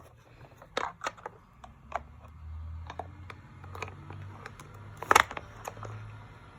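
Plastic clicks and knocks of toy airplane parts and a plastic screw being handled and fitted, the loudest a sharp click about five seconds in. A faint low hum runs under them from about halfway through.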